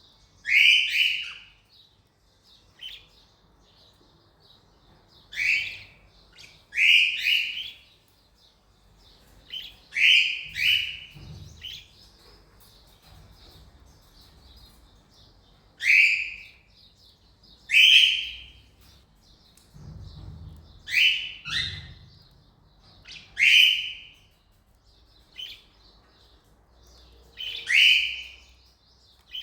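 Cockatiels calling: about fifteen short, loud, shrill calls, singly or in quick pairs every one to three seconds, over a faint steady chattering twitter.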